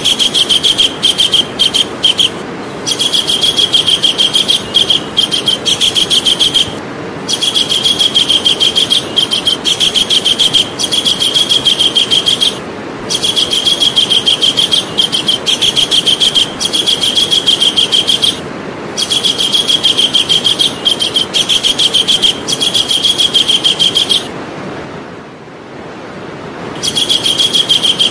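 Javan kingfisher calling: rapid rattling runs of high, evenly repeated notes, each run lasting a few seconds with short breaks between, and a longer pause near the end. A steady hiss lies underneath.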